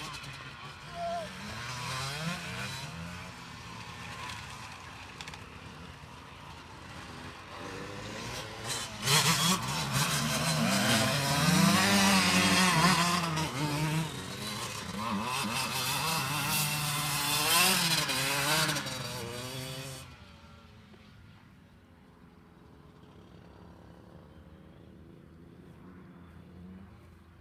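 Motocross bike engines revving up and down on the track, the pitch rising and falling with gear changes and throttle. One bike gets much louder from about nine seconds in, then fades away sharply about twenty seconds in, leaving only a faint distant engine hum.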